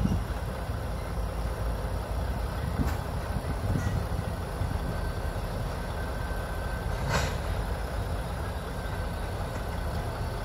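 Low steady rumble of a diesel locomotive shoving a cut of tank cars slowly along a yard track, with a brief sharp sound about seven seconds in.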